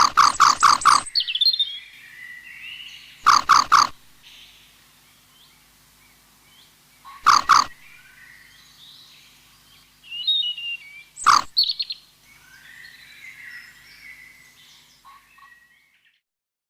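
Harsh animal calls in rapid pulsed bursts of about five pulses a second, the longest at the start and shorter ones about 3, 7 and 11 seconds in, with faint bird chirps and twitters in between. The sound fades out about a second before the end.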